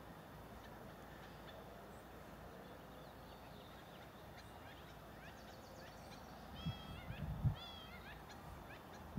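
A bird giving a run of short, repeated chirping calls over faint steady background noise, starting about halfway through. A few low thumps come in the middle of the calls.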